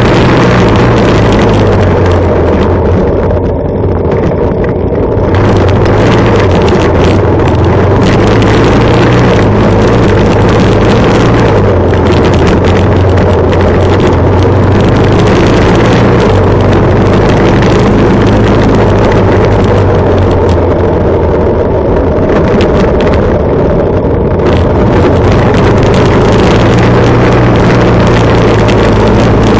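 Harley-Davidson Sportster Superlow XL883L's air-cooled 883 cc V-twin running steadily while riding at a low, even speed, heard close and loud, with rushing road and wind noise over it.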